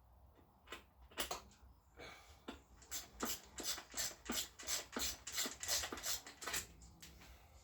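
Quick rhythmic wiping strokes by hand over a pit bike, about three a second for several seconds, after a few scattered single scrapes.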